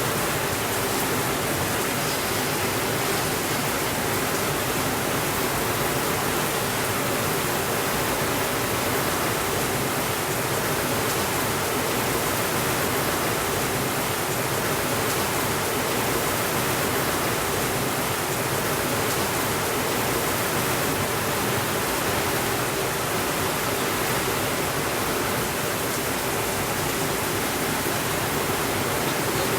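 Heavy rain falling steadily, an even unbroken hiss without thunder.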